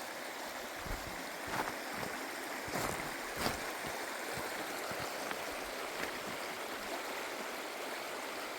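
A river rushing steadily over stones, with a few soft knocks in the first few seconds.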